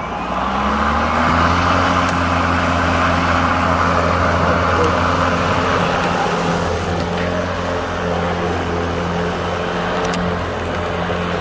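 Ryobi 40-volt brushless cordless lawnmower's motor and blade finishing their spin-up in the first second or so, then running steadily with an even hum and whir while cutting tall Bermuda grass.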